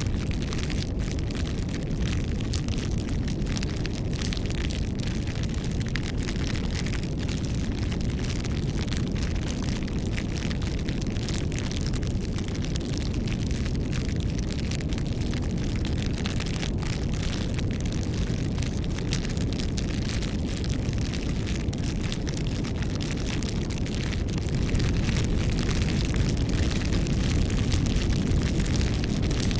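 Wood fire burning: a steady low rumble of flames with frequent small crackles and pops throughout.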